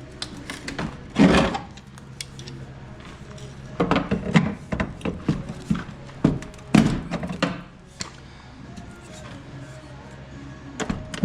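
Irregular clunks and knocks from a crash-bent Jeep Comanche door as it is worked back into shape by hand and tried.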